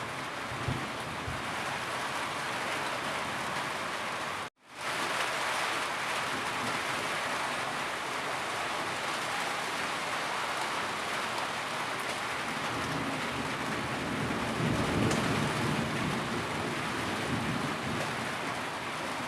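Steady heavy rain falling, an even dense hiss. It cuts out abruptly for a split second about four and a half seconds in, then fades back in.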